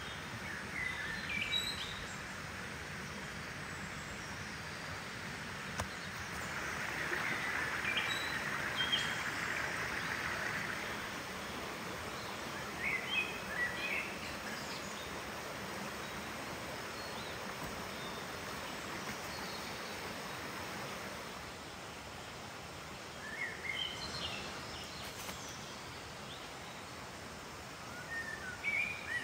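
Forest ambience: a steady background hiss with small birds chirping in short clusters several times.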